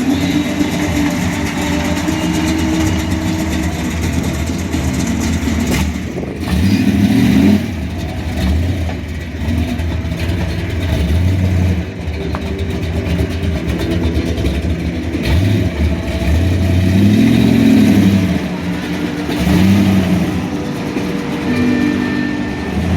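Car engines idling and being revved, the pitch climbing and falling back a few times, most clearly about seven seconds in and again around seventeen seconds.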